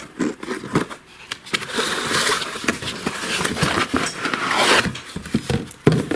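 Wrapping crinkling and rustling as a part is unpacked by hand, with scattered handling clicks.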